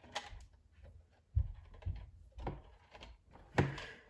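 Plastic LEGO parts of a large model being handled and worked: irregular light clicks and knocks, with a louder thump about a second and a half in and another near the end.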